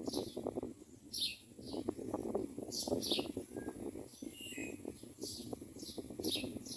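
Common myna nestlings chirping in the nest, short high downward-sliding calls repeated in quick twos and threes, typical of chicks begging for food. Underneath is a steady low crackling rustle.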